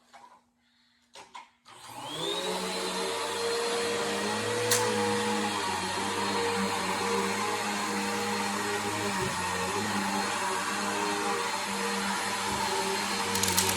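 Bissell Power Force vacuum cleaner switching on a little under two seconds in, its motor whine climbing and settling into a steady run. There is a sharp click a few seconds later and a quick run of clicks near the end.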